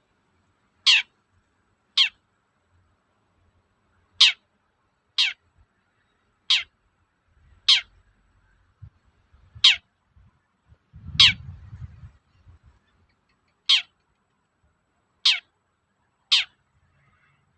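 Long-tailed shrike (cendet) giving its 'toet-toet' call: short, sharp notes that drop steeply in pitch, repeated about once a second, eleven in all. A brief low rumble a little past halfway.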